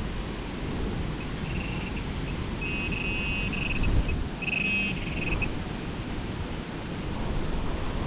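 Wind rushing over the microphone, with a high electronic beep from the metal-detecting gear sounding on and off: a few short beeps, then two longer tones in the middle, signalling metal under the coil or probe.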